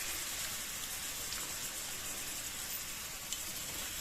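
Sautéed onion and spice masala sizzling gently in oil in a pan on a low flame: a steady soft hiss with a couple of faint ticks.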